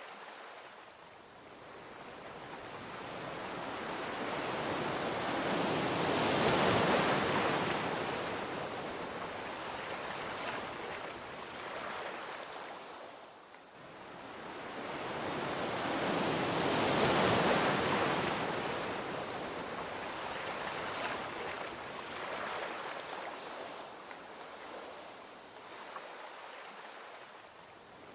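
Gentle ocean waves rolling onto a beach: two waves build, break and wash out, the first peaking about seven seconds in and the second about seventeen seconds in, with softer surf between.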